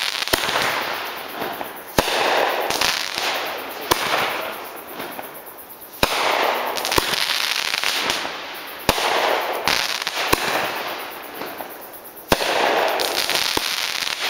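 Consumer aerial fireworks going off in a steady series. There are about a dozen sharp bangs, one every second or two, and each is followed by a rushing noise that fades away.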